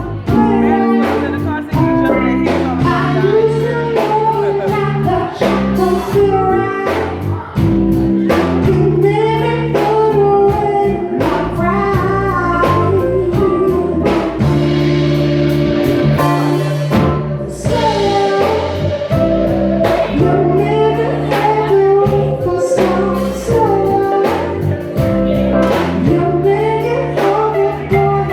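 Live rock band playing a song: a lead vocal over guitar, bass and a steady drum beat.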